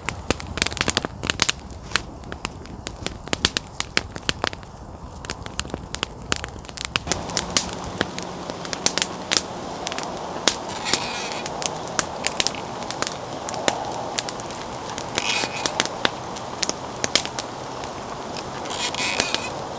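Wood campfire crackling, with many sharp, irregular snaps. About seven seconds in, a steady hiss joins the crackle.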